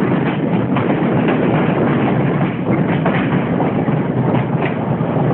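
Running noise of a Sri Lanka Railways Class S10 diesel multiple unit, heard from an open carriage window: a steady rumble with the wheels clicking over the rails.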